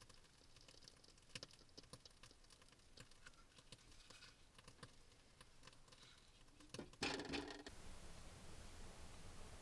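Faint, scattered small clicks and taps, with a louder brief scrape or rustle about seven seconds in, after which a faint steady hiss continues.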